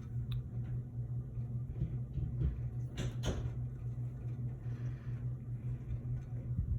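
Steady low hum, with a brief rustle and two sharp clicks close together about three seconds in, from items being handled.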